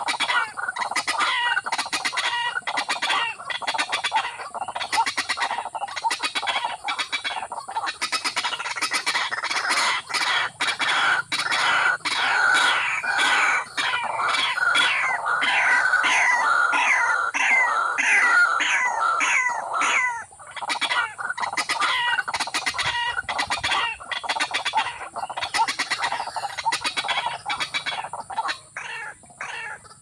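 Rapid, continuous run of loud bird calls, short notes each sweeping down in pitch, coming several a second with a brief break about two-thirds of the way through and fading near the end.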